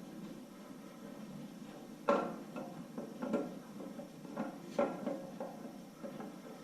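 Steel camshaft being worked out of an LQ4 V8 block, its lobes and journals knocking and scraping against the cam bearings in a series of irregular metal clunks, the loudest about two seconds in and near five seconds.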